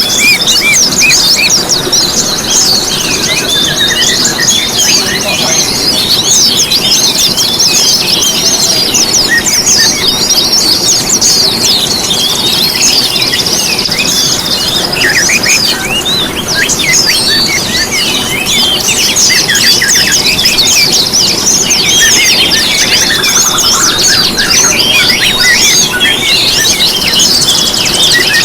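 Dense chorus of many small songbirds chirping and twittering nonstop in high, quick notes, a mixed-species songbird lure (pancingan) recording of the kind played to caged birds such as white-eyes and magpie-robins to set them singing.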